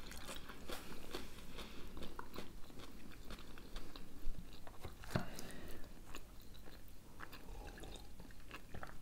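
A person quietly chewing a mouthful of hard-boiled egg, with soft wet mouth clicks and one sharper click a little past halfway.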